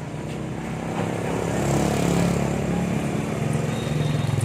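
An engine running, growing louder about a second in and then holding steady.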